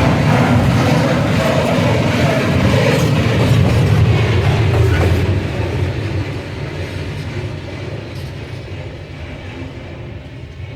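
Freight train passing close by, its wagons rumbling and clattering over the rail joints. About five seconds in the sound begins to fade steadily as the train moves away.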